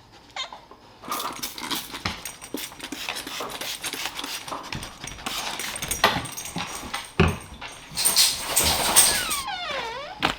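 Rustling and clattering through most of the stretch, then a dog's high whine falling in pitch near the end.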